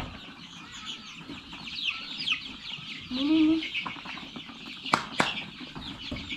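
A brood of young chicks peeping, a steady chorus of short falling cheeps, with a brief low rising-and-falling call about three seconds in and two sharp knocks about five seconds in.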